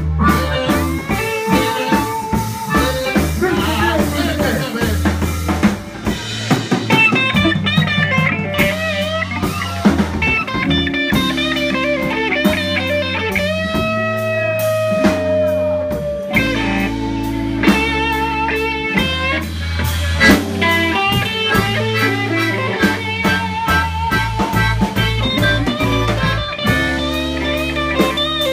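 Live blues band playing an instrumental stretch: guitar lead over a drum kit, with one long held, slightly bending guitar note about halfway through.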